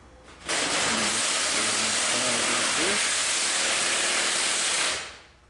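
A loud, steady spraying hiss from a pressurised nozzle, starting about half a second in, holding for about four and a half seconds, then dying away.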